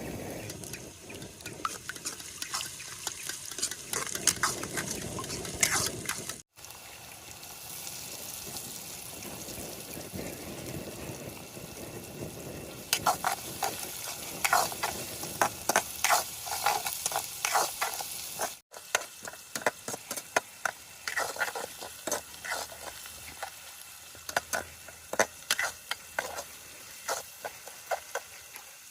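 Food sizzling as it fries in a pan, while a spoon or spatula stirs and scrapes against the pan in repeated sharp clicks.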